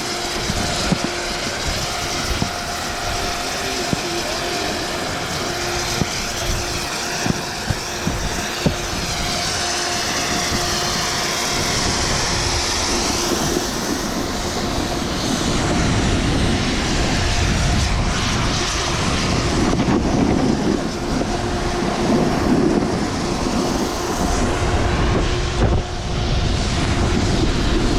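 Wind rushing over the camera microphone and a snowboard scraping across snow during a downhill run, with scattered sharp clicks over the first half. From about halfway through it turns into a heavier low rumble of wind buffeting as speed builds, with a steady hum running under it.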